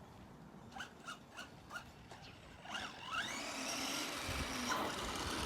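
The electric motor of an Arrma Gorgon RC monster truck whines up in pitch about three seconds in, then runs steadily with tyre noise on pavement as the truck drives. Before that come four short chirps about a third of a second apart.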